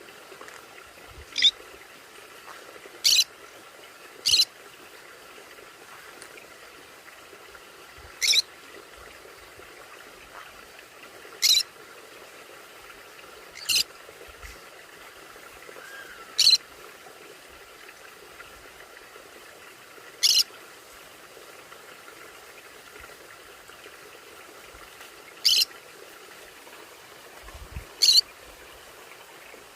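Conure parrot giving short, sharp high calls, about ten in all, spaced irregularly a few seconds apart over a steady background hiss.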